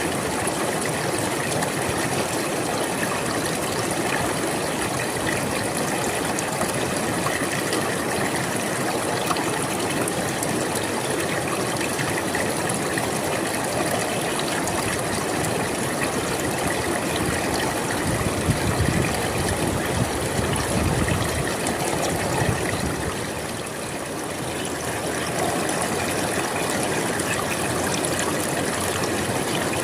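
River water flowing and splashing steadily over stones, with a heavier low rush of water from about 18 to 22 seconds in.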